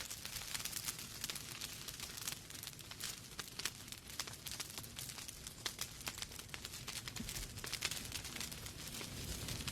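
Wood fire crackling in a fireplace: a dense run of small sharp pops and snaps over a low, steady rumble of burning.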